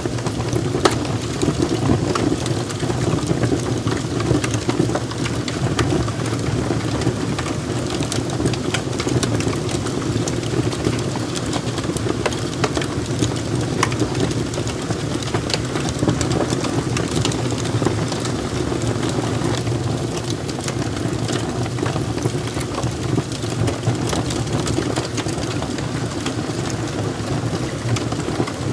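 Log fire burning in a fireplace: a steady low rush of flames with many scattered small crackles and pops from the burning wood.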